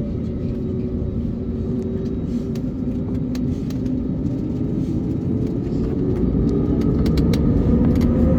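Steady engine rumble heard from inside a vehicle, with a faint whine that slowly rises in pitch as the noise grows louder. Scattered light clicks and rattles sit on top.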